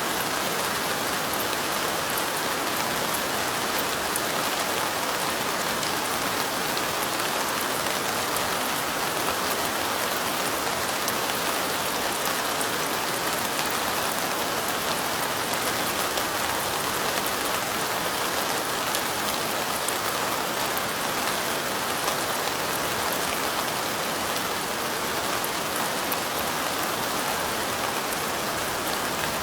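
Steady light rain, with many small raindrops ticking on window glass.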